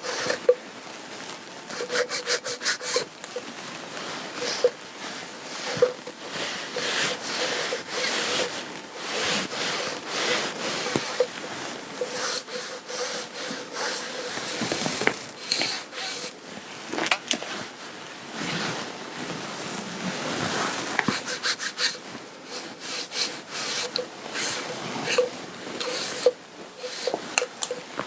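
Lint roller rubbing back and forth over garment fabric in many short, irregular strokes.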